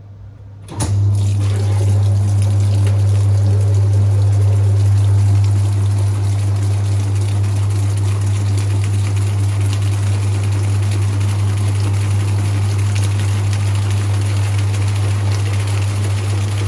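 Whirlpool top-loading washing machine's motor switching on abruptly about a second in and running with a steady loud hum, as water rushes through the pump, typical of the machine pumping out.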